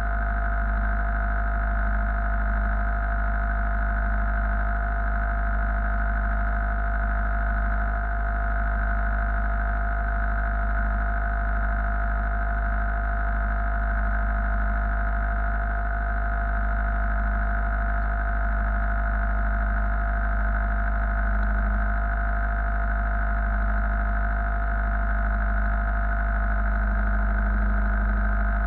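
A steady machine engine drone with a deep rumble and several fixed tones, holding an even pitch and level.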